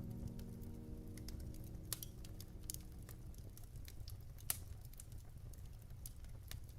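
Wood fire crackling in a fireplace: irregular sharp pops and snaps over a low steady rumble. The last piano chord fades away in the first second or so.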